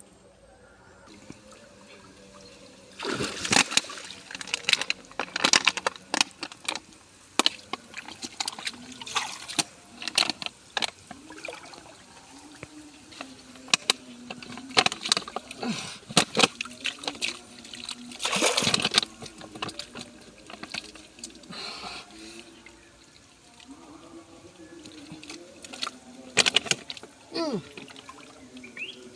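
Water splashing and sloshing in irregular loud bursts, starting about three seconds in and going on through the rest.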